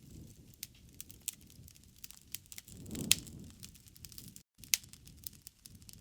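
Wood fire crackling in a fireplace: irregular small pops and snaps over a soft low rumble, with one louder pop about halfway through.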